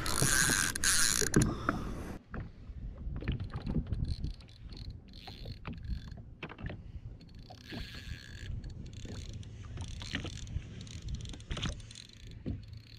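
Fishing reel running with a loud ratcheting buzz for about the first two seconds as a hooked snapper pulls line, then scattered clicks and knocks of rod, reel and gear being handled.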